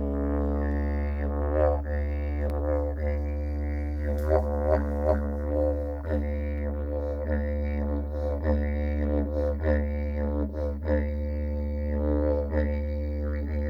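Didgeridoo played in a continuous low drone, with overtones that sweep up and down as the mouth shape changes and a steady rhythm of accented pulses.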